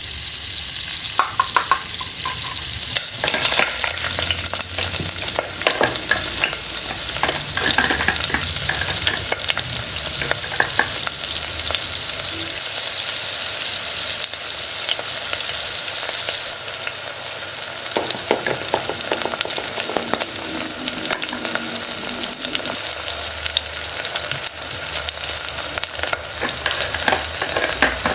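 Food sizzling as it fries in a miniature pan, a steady crackling hiss with frequent light clicks of stirring.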